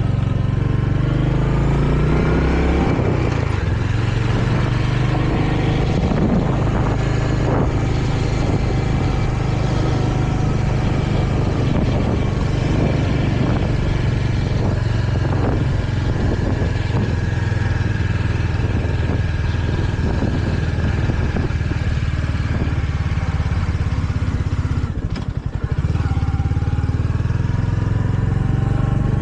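Royal Enfield Hunter 350's single-cylinder engine running under way as the motorcycle is ridden, its pitch rising in the first couple of seconds. Near the end the engine note dips briefly, then climbs again.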